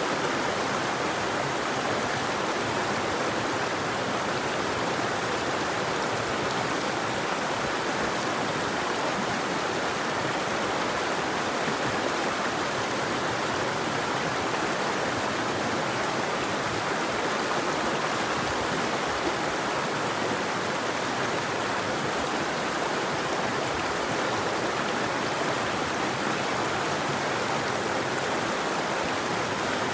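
A river's water flowing, a steady, even rushing.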